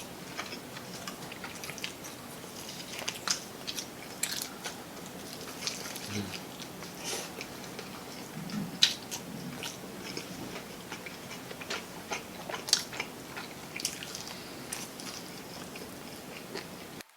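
Crispy fried chicken being bitten and chewed, with many short crackles and crunches from the skin.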